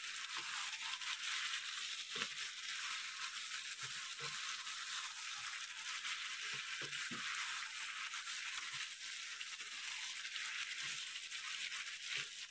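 Mutton pieces frying in masala in a pan: a steady sizzle, with light scrapes and taps of the spoon now and then as it is stirred.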